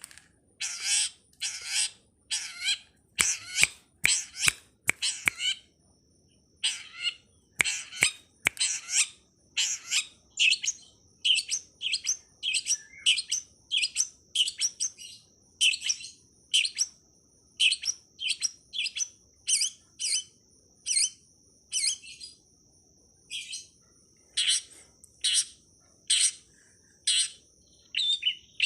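Songbird song: a long series of short, sharp high calls, repeated about once or twice a second. From about a fifth of the way in, a steady high thin tone runs underneath.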